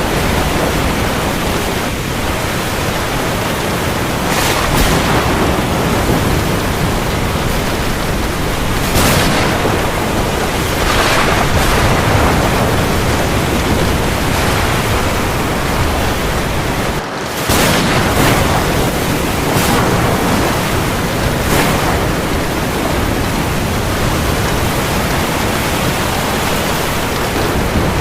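Steady heavy rain, a dense even hiss, with a louder wash swelling up every few seconds and a brief dip in the sound about two-thirds of the way through.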